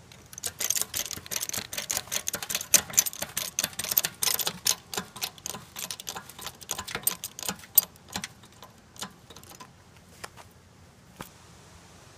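Rapid, irregular clicking and crackling, dense for the first few seconds and thinning to scattered clicks near the end.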